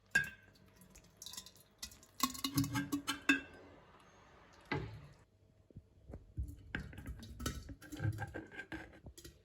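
Kitchen clatter of dishes and utensils: irregular knocks and clinks, some ringing briefly, in clusters near the start, around two to three seconds in, and through the last few seconds.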